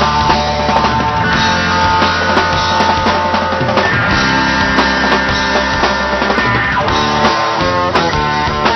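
Rock music: an instrumental passage with electric guitars, bass and drum kit, no singing.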